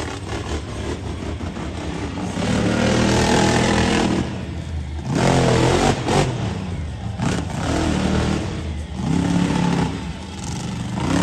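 Monster truck engine revving hard in repeated surges, its pitch climbing and falling with dips between bursts of throttle.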